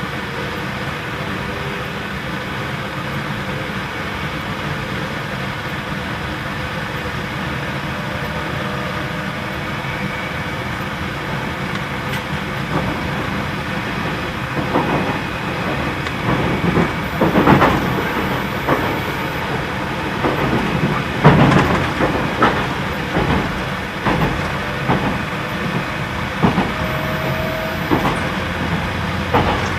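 Running noise inside a JR Central 313 series electric train on the move: a steady hum from the running gear and the air conditioning. From about halfway, the wheels clatter irregularly over rail joints, with the loudest knocks about two thirds of the way through.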